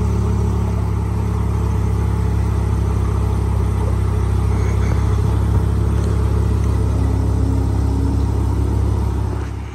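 Supercharged Lamborghini Huracán's V10 idling steadily just after startup, a low, even engine note from the quad exhaust, cutting off near the end.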